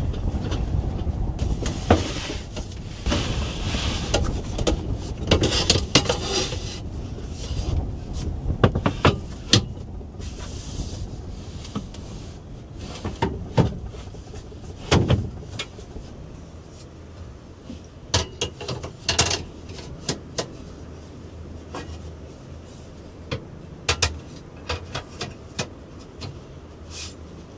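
Strong wind rumbling on the microphone, easing after about ten seconds, with many scattered sharp clicks and knocks, one louder knock about halfway through.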